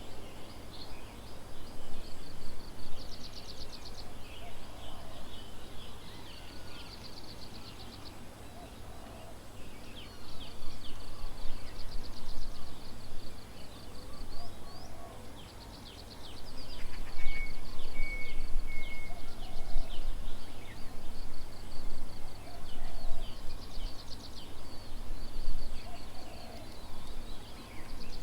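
A chorus of small birds calling, with fast buzzy trills and short downward-sweeping chirps repeating throughout, and a few short high whistled notes a little past the middle. A low rumble runs underneath, louder in the second half.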